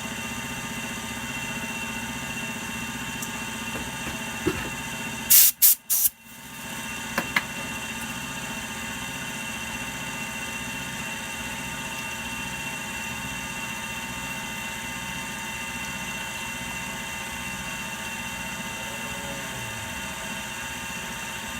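Milling machine running steadily, with several steady tones in its hum. About five seconds in there is a quick cluster of loud knocks, then two small clicks.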